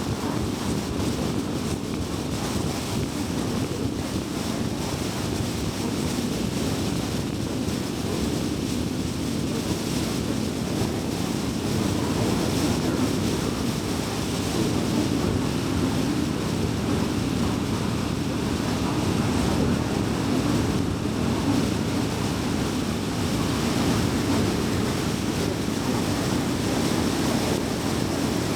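Car driving at highway speed: steady road and tyre noise with a low hum from the car.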